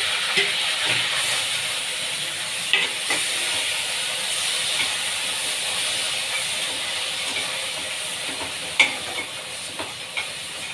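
Grated onion frying in hot oil with cumin, a steady sizzle that slowly grows quieter, with a few light clicks of a spoon against the pan as it is stirred.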